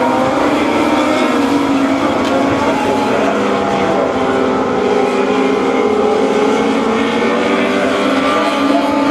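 Several mini sprint race cars' small engines running together on track, their overlapping engine notes rising and falling gently as they lap.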